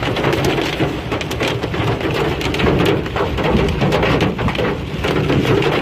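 Hail pelting a vehicle's roof and windows, heard from inside the cab: a loud, steady rush of many small impacts.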